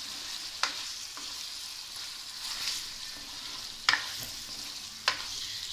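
Chicken, peppers, onions and tomatoes sizzling steadily in a non-stick karahi while a spatula stirs them, knocking sharply against the pan three times.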